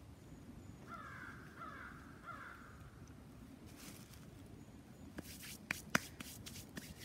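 A bird gives several harsh calls in quick succession, followed by handling noises: rustling and two sharp clicks a few seconds later, the second the loudest.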